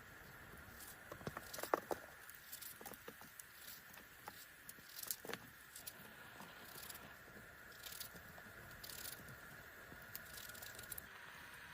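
Faint, irregular crackles and sharp pops of a wood fire over a steady hiss, with a small cluster of louder pops about a second and a half in and another about five seconds in.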